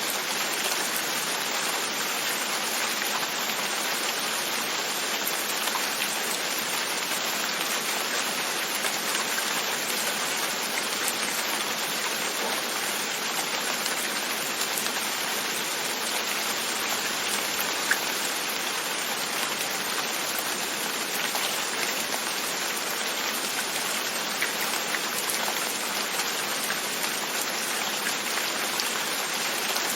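Steady rain, its drops tapping on a window pane in an even, unbroken hiss, with one sharper tap about halfway through.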